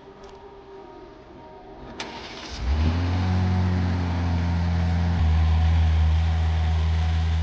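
A car engine starting a little under three seconds in and then idling steadily, after a sharp click about two seconds in.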